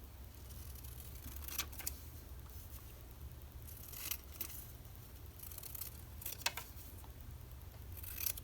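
Scissors cutting magazine paper in a few separate short snips, over a low steady hum.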